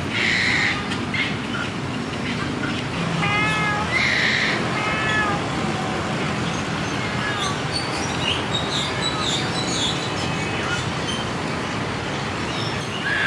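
Birds calling in the enclosures: a few loud, high cries, once near the start, once about four seconds in and once at the end, and short curved calls around three and five seconds in, over steady background noise.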